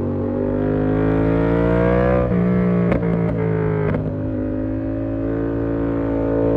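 Yamaha MT-07's parallel-twin engine through an SC Project exhaust, pulling with a rising note for about two seconds, then the pitch drops as it shifts up. A few short cracks follow, then it runs on at a steady lower pitch.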